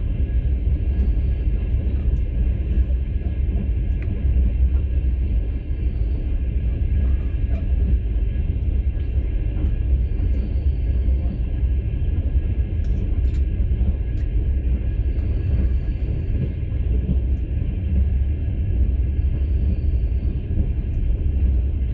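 Passenger train running, heard from inside a sleeper carriage: a steady low rumble of the car on the rails, with a few faint clicks.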